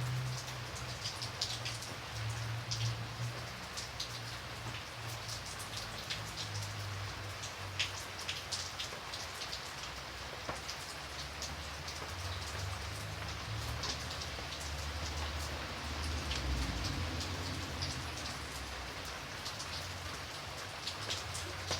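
Steady rainfall, with many separate drops ticking sharply on a hard surface over an even hiss. A low, wavering rumble runs underneath.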